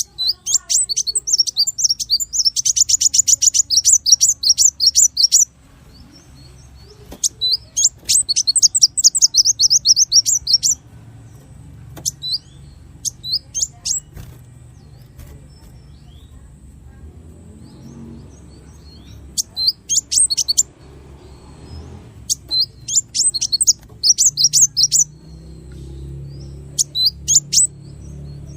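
A small songbird singing rapid, sharp, high-pitched notes in quick runs, the 'shots' prized in training songs. It opens with a run of about five seconds, then another of about three seconds, then shorter bursts separated by pauses.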